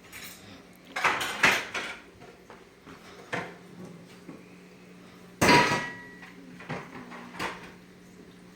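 Kitchen cookware being handled: a series of knocks and clatters of pots, pans and utensils, the loudest a metal clang with a brief ring about five and a half seconds in.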